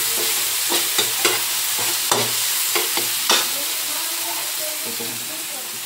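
Tomatoes, garlic and ginger sizzling in hot oil in a pan while being sautéed, a steady frying hiss. A utensil clicks against the pan several times in the first few seconds while stirring.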